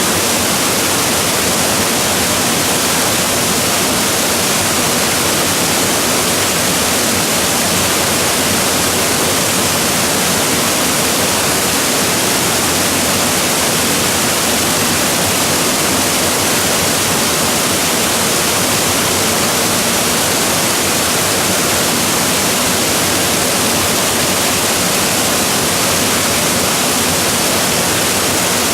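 Waterfall roaring steadily: a loud, unbroken rush of falling water with plenty of hiss.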